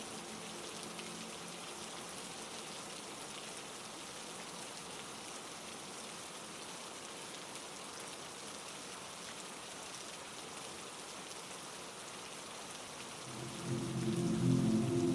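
Steady heavy rain, an even wash of drops. About thirteen seconds in, a louder low, steady humming tone comes in under the rain.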